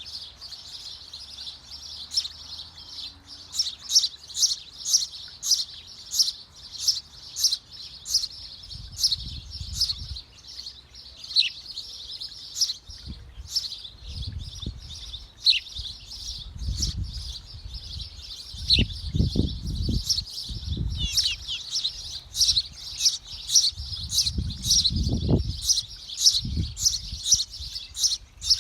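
Small birds in a birdhouse chirping rapidly and almost without pause, several high chirps a second, with dull low thumps coming and going from about a third of the way in.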